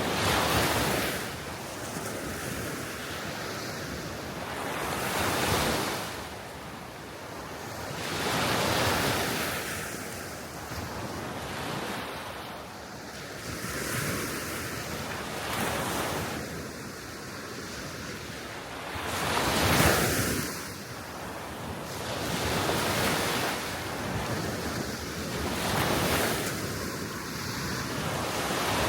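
Small waves breaking and washing up on a shore, a swell of surf every few seconds, the strongest one about two-thirds of the way through. Wind blows steadily underneath.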